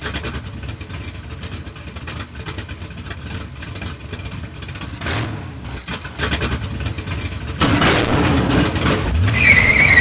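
Car engines running and revving, growing louder about eight seconds in, with a rising rev shortly before the end and a high wavering tone over it near the end.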